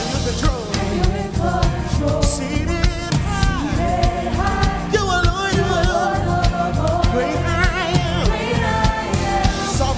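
Live gospel praise-and-worship music: a lead singer's voice, with vibrato and runs, over a full band with drums and bass. The recogniser caught no words in it.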